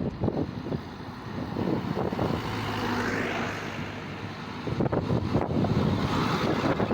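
Heavy truck engine running with an uneven low rumble and a steady hum that swells in the middle.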